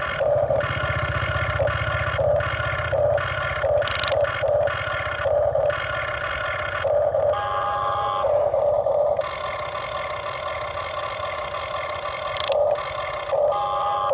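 Huina RC excavator's small electric gear motors whining in short start-stop pulses, about ten in all, as its controls are worked. A low rumble sits under the first few seconds.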